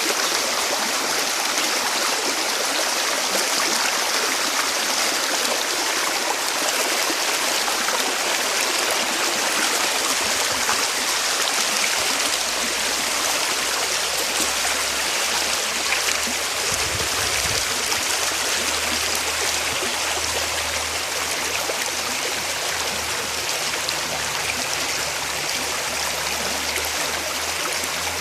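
Running water of a stream flowing steadily, an even rushing hiss.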